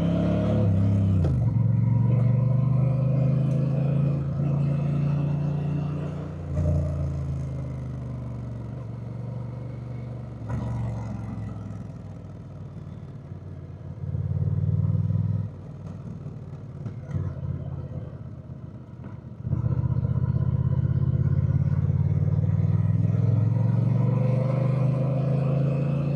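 Honda Rebel 1100 motorcycle's parallel-twin engine under way. The engine note drops about a second in and runs quieter through the middle, with a short blip of throttle partway through, then pulls strongly and steadily again for the last few seconds.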